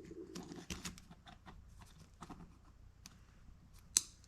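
Light handling noises: scattered soft clicks and rustles as small compressor accessories are worked out of a packing bag, with one sharper click near the end.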